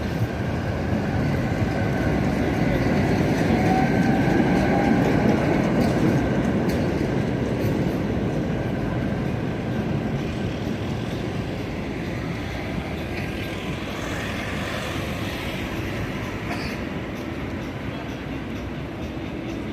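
A vehicle's continuous rumble passing close by. It swells to its loudest about four seconds in, then slowly fades away.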